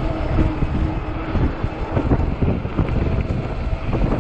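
Strong wind buffeting the microphone in loud, uneven gusts while riding an electric fat-tire bike into a headwind.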